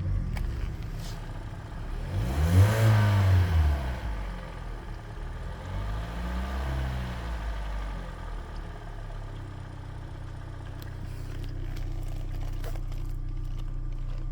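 2013 Hyundai Elantra coupe's 1.8-litre four-cylinder engine, heard from close above, idling, revved up and back down about two seconds in, revved again more lightly about six seconds in, then settling back to a steady idle. The owner hears a tick from cylinder 3 that goes away under throttle and returns as the revs drop, and wonders whether it is piston slap or something deeper than the lifters.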